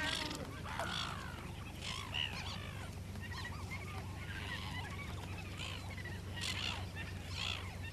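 Australasian gannet breeding colony calling: many short, harsh calls overlapping without pause, over a steady low hum.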